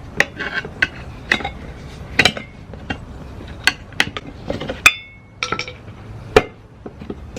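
A metal pry tool clinking and knocking against a pit bike's wheel rim while levering the tyre bead off: a dozen or so sharp, irregular clinks, one of which rings briefly about five seconds in.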